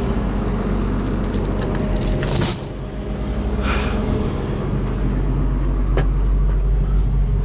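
A vehicle engine running steadily under load during a stuck-truck recovery, with rattling clicks about two seconds in and a brief hiss near four seconds.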